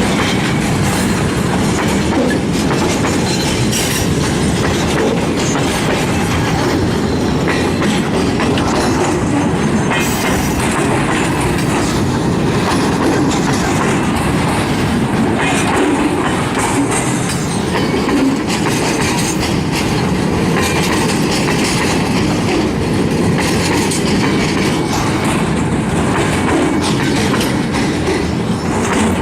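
Loaded broad-gauge freight train rolling over a damaged road level crossing: a steady, heavy rumble with repeated wheel clatter and knocks as the wheels cross the broken, flexing rails.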